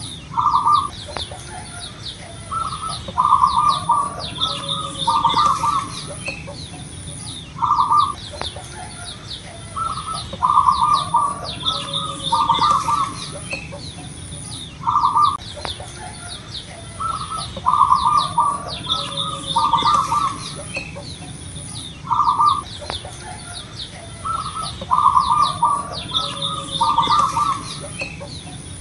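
Zebra dove (perkutut) cooing its loud song: a single coo followed by a rolling cluster of coos, the phrase repeated about every seven to eight seconds, four times. Fainter high-pitched chirps and a steady thin whine sit in the background.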